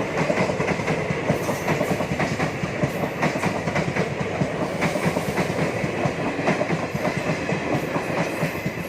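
Moving train running along the track: a steady rumble with rapid, irregular clicking of the wheels over the rails.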